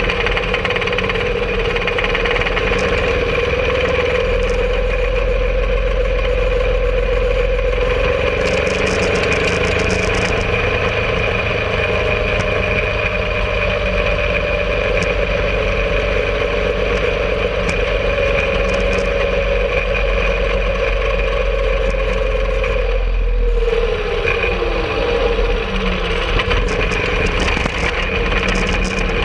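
Home-made rail cart's engine running steadily as the cart rides the rails, with a constant hum. About 23 seconds in, its pitch falls away as it slows.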